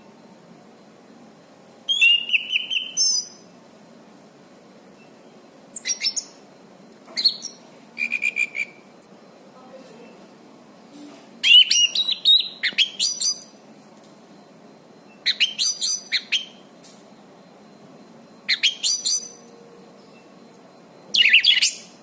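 Anis cendana thrush singing in short, high-pitched, warbling phrases of about a second each, roughly eight of them separated by pauses of a second or two.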